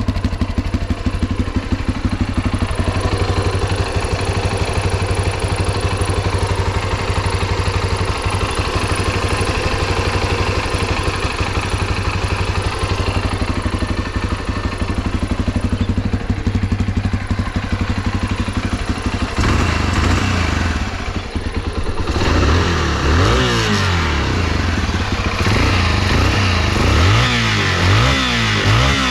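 Yamaha XT250T's air-cooled single-cylinder four-stroke engine idling with an even, steady beat, then revved in repeated blips of the throttle over the last several seconds. It runs without abnormal noises, as the seller states.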